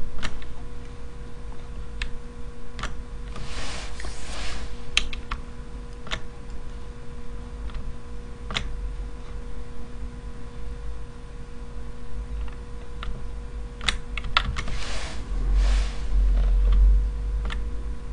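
Computer keys clicking, single sharp clicks scattered irregularly a second or several apart, over a steady electrical hum. Two longer soft rustling hisses come about four and fifteen seconds in.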